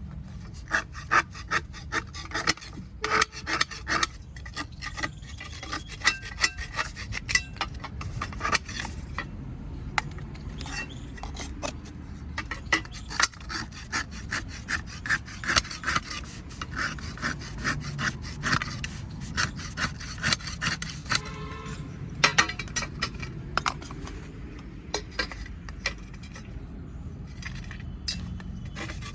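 Dry fired clay being crushed and crumbled: dense, irregular crunching and sharp crackles with a rasping, rubbing quality.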